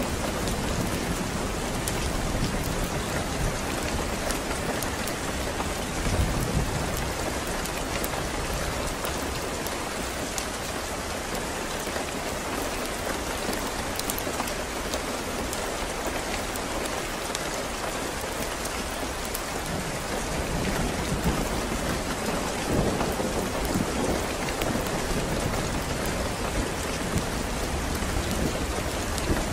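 Steady rain with a low rumble of thunder. The rumble fades in the middle and builds again about two-thirds of the way through.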